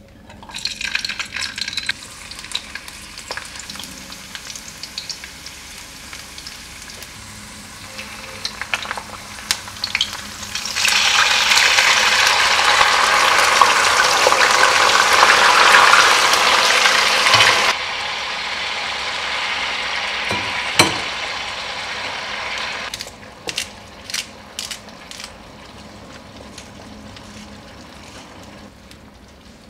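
Garlic and shrimp frying in hot olive oil in a pan, a steady sizzle. It grows much louder about a third of the way in, when the raw shrimp go into the oil, and stays loud for several seconds before settling down. Near the end a few sharp clicks or taps stand out as the frying fades.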